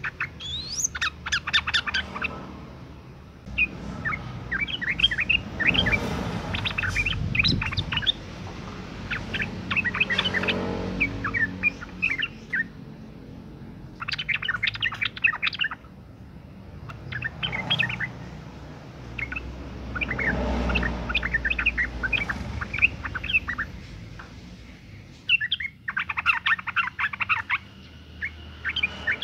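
Female yellow-vented bulbul (trucukan) calling in breeding condition: clusters of quick, sharp chirping notes, a fresh burst every couple of seconds.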